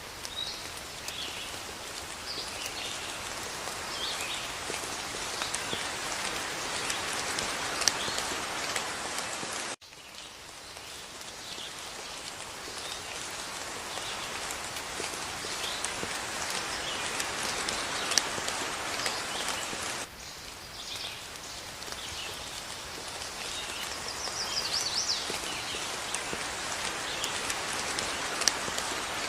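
Steady rain with birds chirping now and then above it and a few sharper drops. The sound cuts out for an instant about a third of the way in and changes abruptly again about two thirds in.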